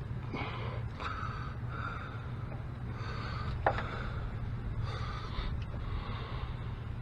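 Hand-tool work on the ABS sensor's hold-down bolt: soft scraping and handling noises with a sharp metallic click about halfway through, over a steady low hum.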